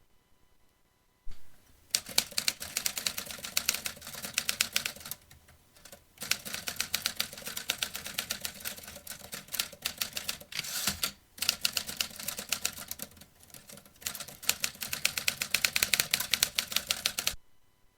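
Vintage manual typewriter being typed on: rapid runs of sharp key strikes with a couple of brief pauses. It starts about a second in and stops shortly before the end.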